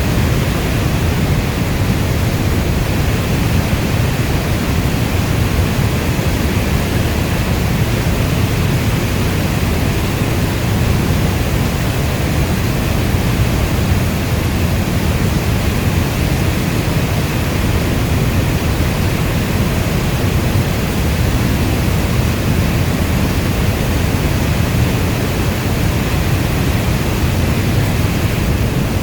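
Steady heavy rainfall: an even hiss with a strong low rumble underneath.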